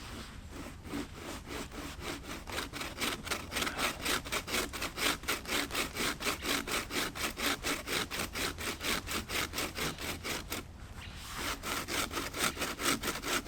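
Homemade wooden bow saw cutting into a damp log, with fast, even back-and-forth rasping strokes and a short break about ten seconds in before sawing resumes. The saw cuts, but its frame wobbles.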